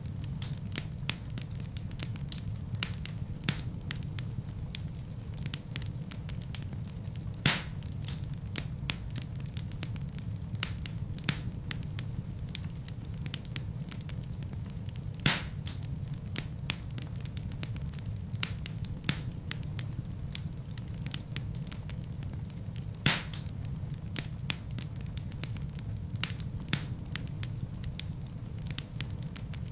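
Fireplace fire crackling: a steady low rumble of flames under frequent small snaps, with three louder pops spaced evenly through.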